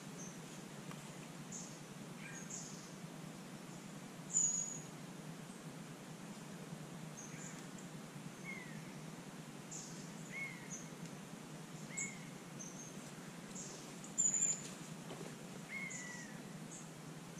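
Birds calling: scattered short chirps and brief arched whistles, with two louder high calls about four seconds in and near the end, over a steady low background hum.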